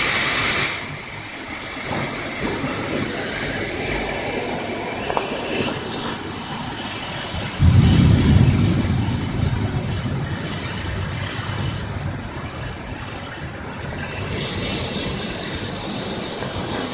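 Strong storm wind blowing in a steady rush, with a loud gust buffeting the microphone with a low rumble about eight seconds in.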